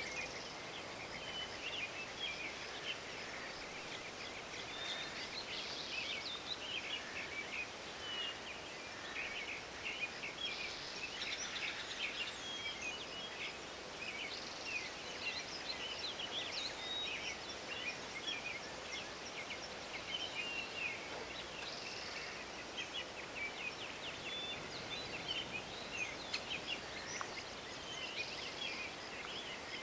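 Forest ambience: many small songbirds chirping and trilling continuously over a soft, steady background hiss.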